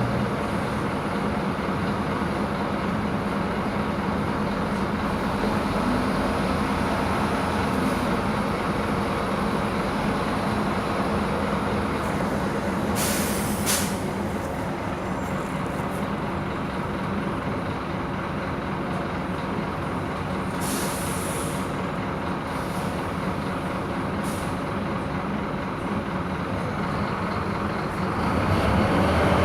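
Scania K230 IB city bus's diesel engine running steadily, with short hisses of air from the air brakes about halfway through and twice more a little later. The engine grows louder near the end.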